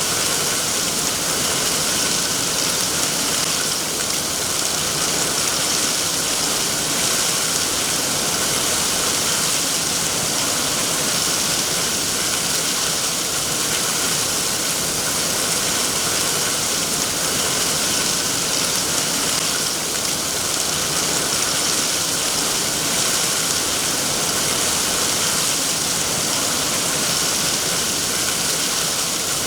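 Steady rain, an even hiss with no breaks or distinct drops standing out.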